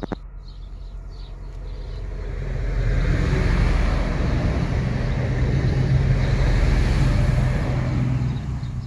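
Passenger train passing at speed through a level crossing: the rumble of its wheels on the rails builds about two seconds in, holds loud with a steady low hum for about five seconds, then fades as it goes by.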